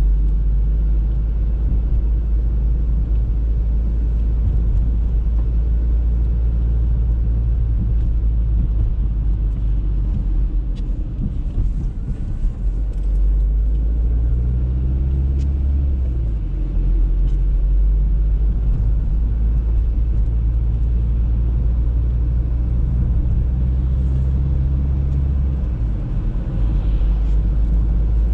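Audi A3 on the move: a steady low rumble of engine and road noise. The engine note shifts about halfway through and again near the end.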